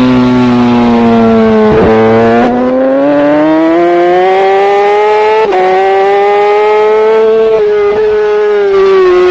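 Racing superbike engine at high revs, heard from a camera mounted on the bike. The note breaks briefly around two seconds in, then climbs slowly through a long pull, with a short dip about halfway, and drops near the end.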